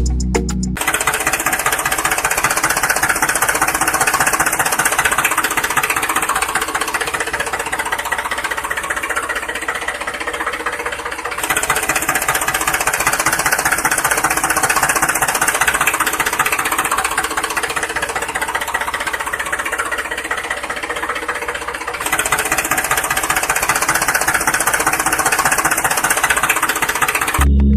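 Small motor of a DIY model tractor running with a fast, steady rattle. The sound changes level abruptly twice, about a third and two-thirds of the way through.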